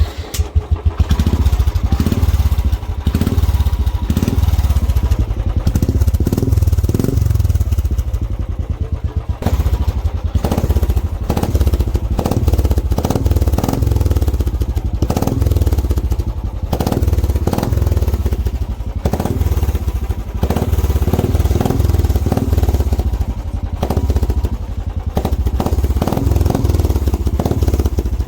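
Royal Enfield Bullet single-cylinder engine running loud through a modified, freed-up exhaust with the stock silencer pipe removed. It starts sharply and keeps running, its level swelling and easing several times as the throttle is worked.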